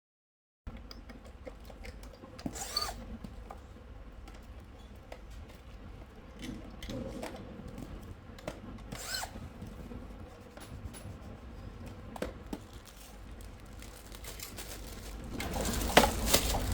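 Workshop machinery noise: a power tool running with scattered clicks and knocks and a couple of brief shrill squeals, growing louder near the end.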